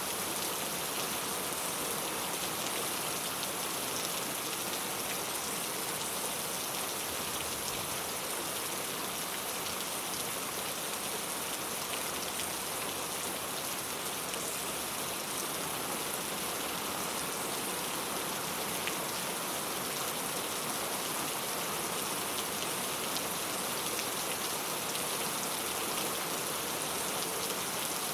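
Steady rain falling on a clay-tile roof: an even patter with scattered individual drop ticks.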